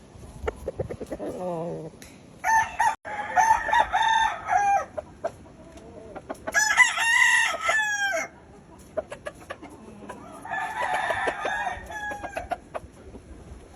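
Gamefowl roosters crowing: three long crows, the middle one the loudest, with short clucking calls near the start.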